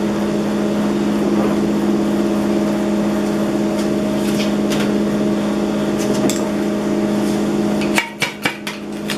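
Chipping hammer knocking slag off a freshly laid 7018 stick weld bead: a few sharp metallic taps, over a steady hum that cuts off suddenly about eight seconds in, followed by a quick cluster of harder knocks.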